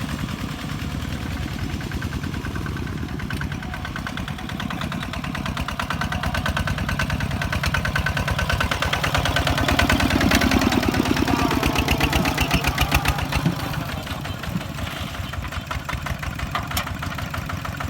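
Kubota DC-70 Plus rice combine harvester's diesel engine running steadily under working load. It grows louder a few seconds in, is loudest a little past the middle, then eases back.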